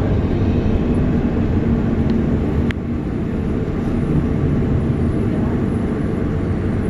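Airport people-mover tram car running along its guideway, heard from inside the car: a steady low rumble with a faint hum, and a single sharp click a little under three seconds in.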